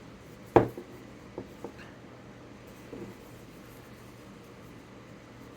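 One sharp, hard knock about half a second in, then two lighter knocks and a soft clatter near the three-second mark: a Thuringian stone razor hone being handled and set down on a hard surface.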